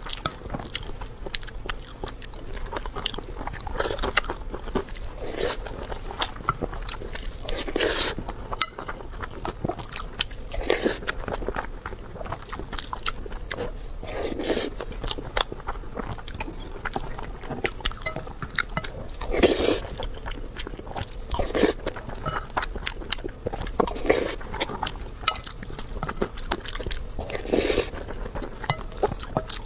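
Close-miked eating: chewing and biting mouthfuls of rice with scrambled egg and braised pork belly, with small clicks and a swell of mouth noise every two to four seconds.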